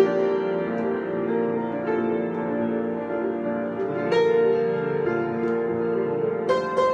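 Piano improvisation: sustained chords ringing on, with new notes and chords struck about four seconds in and again near the end.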